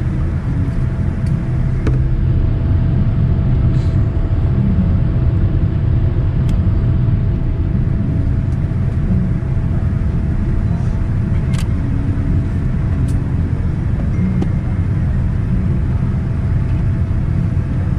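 Cabin noise inside a Boeing 787-9 taxiing after landing: a steady low rumble with a faint steady tone above it and a few light clicks.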